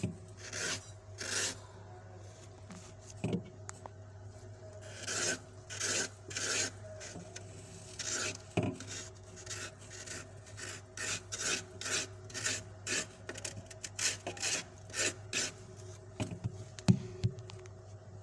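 A knife blade scraping soft, fluffy frost from a freezer wall in repeated short rasping strokes, about one to two a second, over a steady low appliance hum.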